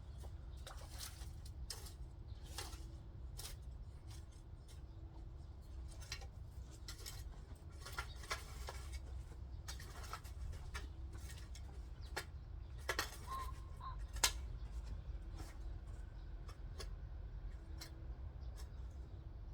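Scattered light clicks and rustles at an irregular pace, over a low steady rumble, with a few sharper ticks in the middle.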